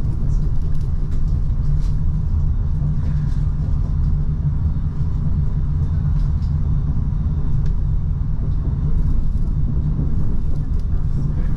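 Steady low rumble of a Hitachi Rock ETR 621 electric train running along the track, heard from inside the passenger cabin, with faint scattered ticks over it.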